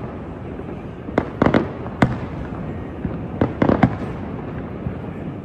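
Fireworks bursting in clusters of sharp bangs: a quick group just after a second in, a single bang at two seconds, and another group about three and a half seconds in, over a steady background hiss.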